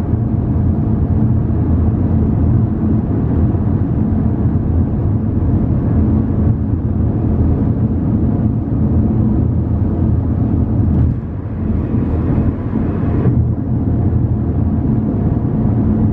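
Car driving, with a steady, loud engine and road rumble that starts and stops abruptly.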